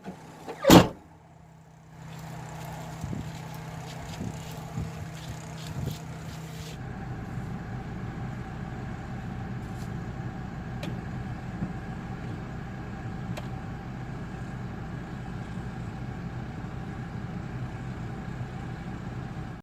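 A sharp bang near the start, then a small car's engine running steadily with a low hum and a few faint clicks. About seven seconds in, it settles into an even rushing hum.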